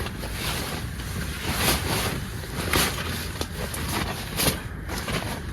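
Strong wind blowing, with a low rumble of wind on the microphone. A few short rustles of gear being handled come about two, three and four and a half seconds in.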